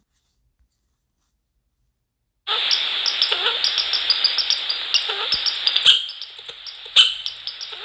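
A hiss cuts in suddenly about two and a half seconds in, with many quick irregular clicks and scratches over it: small animals pecking and scrabbling at seed inside a bird-feeder box, heard through a webcam microphone.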